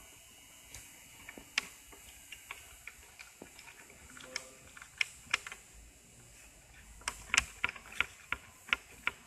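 Metal clamps being tightened on a glued longboard deck, giving sharp irregular clicks that come faster near the end.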